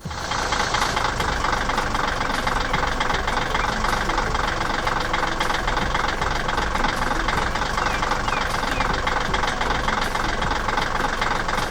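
A vehicle engine running steadily and evenly, starting and stopping abruptly.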